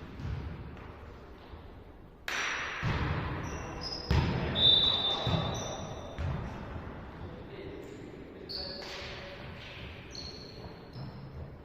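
Indoor volleyball play: a volleyball struck hard about two seconds in and again about four seconds in, with short high squeaks of sneakers on the court floor and players' voices.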